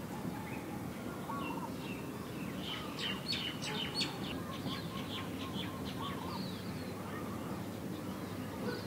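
Birds chirping, with a quick run of sharp high chirps about three seconds in and scattered lower calls, over a steady low background rumble.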